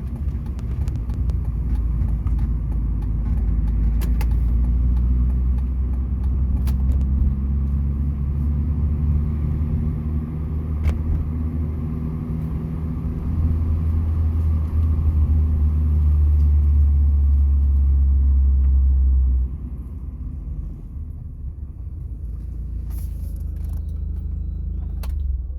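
Mini Cooper S R53 driving, its supercharged 1.6-litre four-cylinder engine and road rumble running steadily. The rumble grows louder for a few seconds, then drops suddenly to a lower level about three-quarters of the way through.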